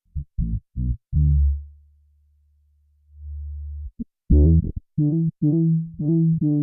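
Bass guitar played through an MXR MB301 Bass Synth pedal, giving a synth-bass tone: a few short staccato notes, then a long low note that fades away, a quieter held low tone, and from about four seconds in a fast run of short notes.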